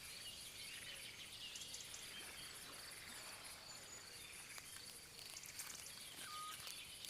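Faint outdoor forest ambience with insects chirping steadily in a fine, rapid pulse, and a few soft faint chirps.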